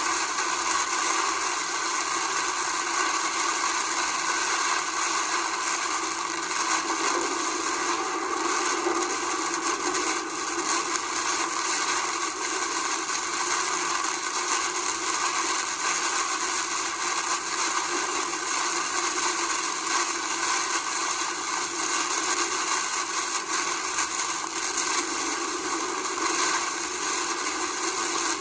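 Heavy rain pouring down in a thunderstorm, a steady dense hiss with no thunderclap.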